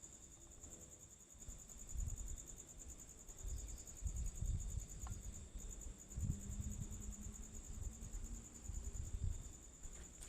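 Crickets trilling steadily in a fast, high-pitched pulsing trill. From about two seconds in, irregular low rumbles and thumps come and go.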